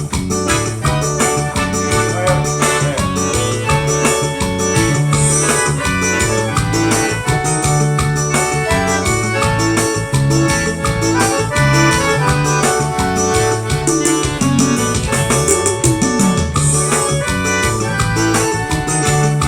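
Live forró band playing instrumentally: a keyboard with an organ-like sound over a repeating bass line and a steady beat, with no singing.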